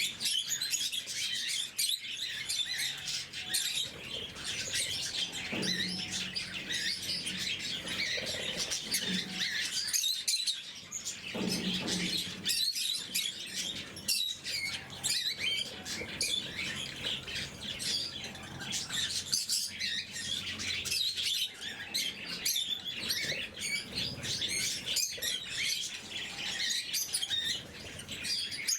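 Lovebirds chattering in a steady stream of rapid, high chirps with no pauses.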